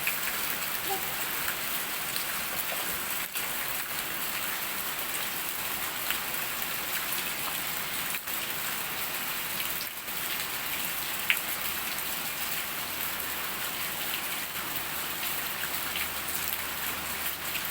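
Steady rain falling: an even hiss with occasional sharp ticks of drops or splashes, one more distinct about eleven seconds in.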